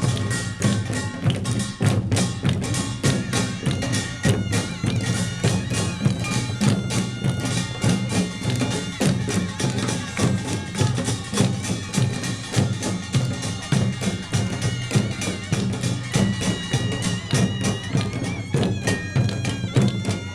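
Korean pungmul percussion band playing Jeolla Jwado farmers' music: kkwaenggwari small gongs clang in a fast, dense beat over janggu and buk drumming, with ringing metallic tones above.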